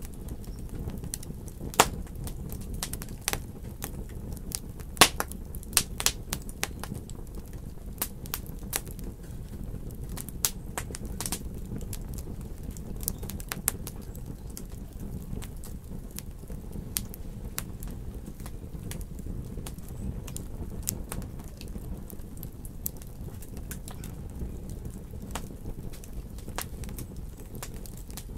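Wood fire in a fireplace crackling: a steady low rumble of burning with frequent sharp pops and snaps at irregular intervals, two of them louder about two and five seconds in.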